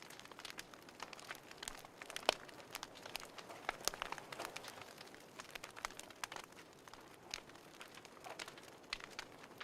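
Wood fire crackling in a fireplace: irregular snaps and pops over a soft hiss, with a sharper pop a little past two seconds in.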